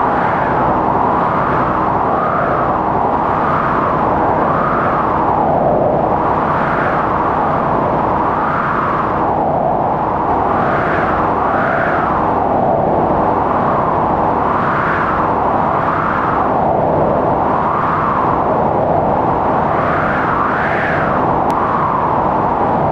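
Strong wind howling in a blizzard, its pitch swelling up and falling back with each gust every second or two.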